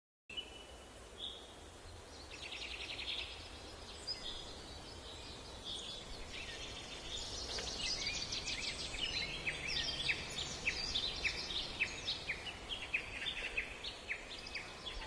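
Birds chirping and trilling over a steady low background hiss, with a buzzy trill about two seconds in and a dense run of short, quick chirps from about halfway through.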